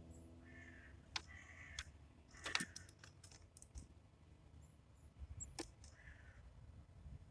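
Titmice at a bird feeder: a few irregular sharp taps and clicks, the loudest about two and a half seconds in, with faint short chirps between them.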